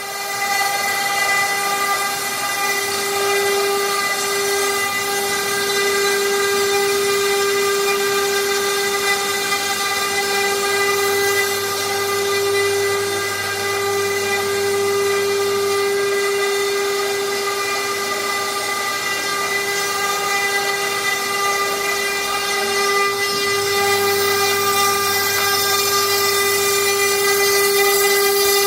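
CNC machine running with a steady whine that holds one pitch throughout.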